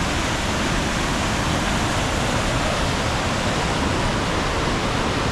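Waterfall swollen with storm rain, a loud steady rush of falling water.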